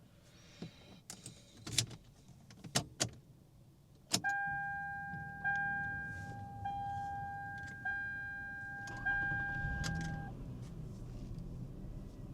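Keys jangling and clicking in a 2005 Lexus ES330, then a dashboard warning chime dinging five times a little over a second apart as the ignition is switched on, over a low rumble of the car's running engine.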